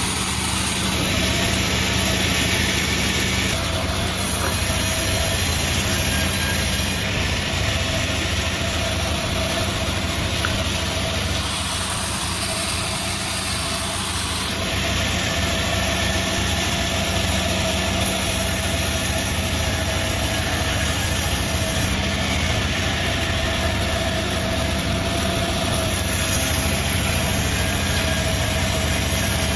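Multi-blade sawmill machine running steadily, a continuous motor drone with a constant hum and no break or change in speed.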